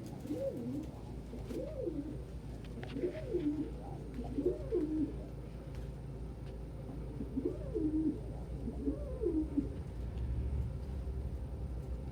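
Domestic pigeon cooing in a courtship display: six rolling coos, each rising and falling in pitch, four in quick succession, then a pause, then two more.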